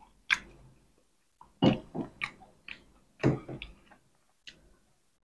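Close-miked chewing and lip-smacking of a mouthful of spicy duck larb and fresh greens, in several short, wet bursts with pauses between.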